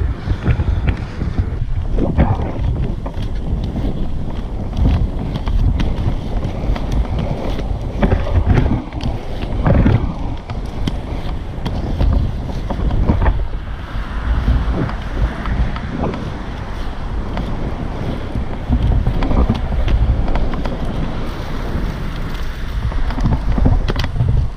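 Inline skate wheels, 125 mm on Megacruiser frames, rolling over pavement with a continuous rumble and scattered clicks, under wind buffeting the microphone.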